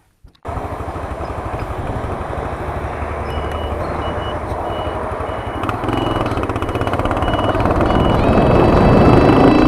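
Moped on the move: engine running under dense wind and road rumble that grows louder. A short high beep repeats about twice a second in the middle, and steady high tones come in near the end.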